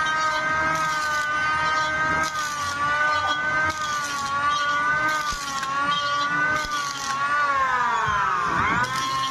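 Electric hand planer running with a steady high motor whine, with repeated short bursts of cutting noise as the blades pass over the wood. Near the end the pitch dips sharply and climbs back, as the motor is loaded.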